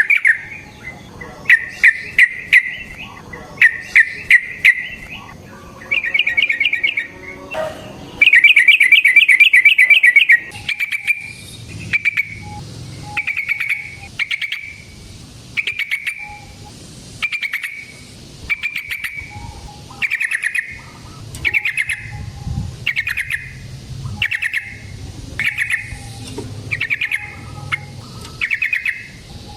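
Yellow-vented bulbul (trucukan) singing: loud, fast trilled phrases for the first ten seconds or so, then a long run of short bubbling notes repeated about once a second.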